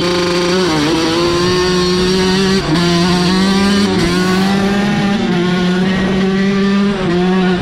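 Motorcycle engine running at steady high revs, its pitch held nearly level with a few brief dips.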